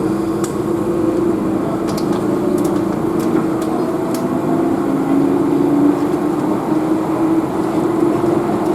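Keihan electric train running, heard inside the passenger car: a steady rumble of wheels on rail with a motor hum that drifts slightly in pitch, and a few faint clicks in the first half.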